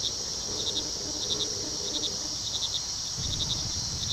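Night-time riverside ambience recording: crickets chirping in short repeated trills over a steady high insect hiss, with frogs calling lower down.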